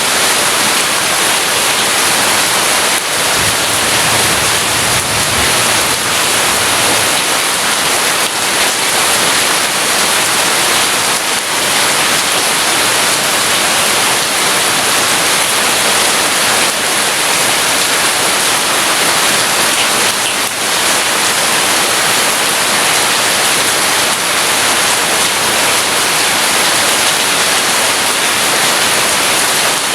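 Heavy rain falling steadily, as a loud, even hiss. A low rumble of distant thunder swells about three to seven seconds in.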